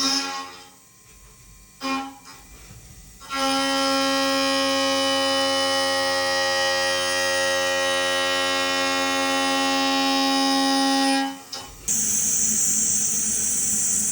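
End mill cutting steel on a milling machine, chattering with a loud, steady, high-pitched squeal made of several tones at once, typical of cutting parameters pushed too hard. It fades out briefly just after the start, returns about three seconds in and holds, then near the end gives way to a steady hiss.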